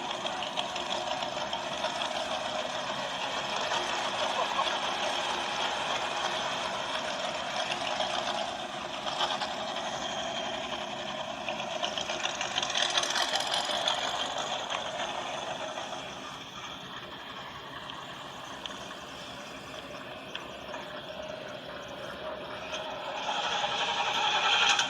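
Car engine running, its level rising and falling, with a dip about two-thirds of the way through and a swell just before the end.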